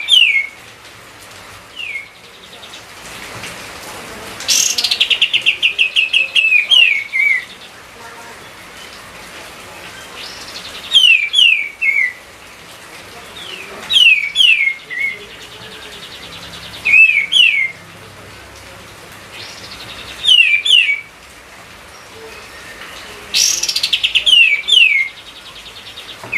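Kapas tembak songbird singing loudly: short phrases of two or three quick, sharply falling whistled notes repeated every few seconds. Two of the phrases open with a rapid chattering rattle before the falling notes.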